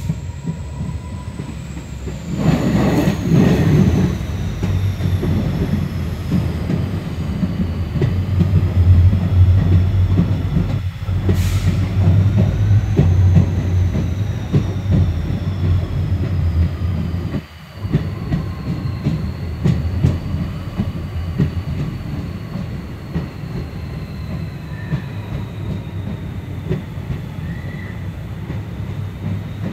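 Passenger train coaches rolling over the track, heard from the open coach doorway: a loud, steady rumble that grows louder about two seconds in as the train runs into a tunnel. A thin, high wheel squeal drifts slowly in pitch above it.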